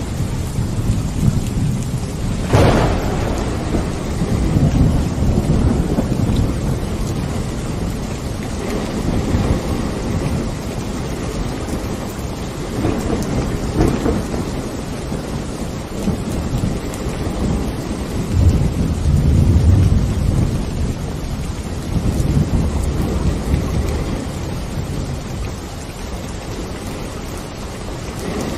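Steady rain with thunder: a sharp crack about two and a half seconds in, then low rolling rumbles that swell and fade several times, the loudest about two-thirds of the way through.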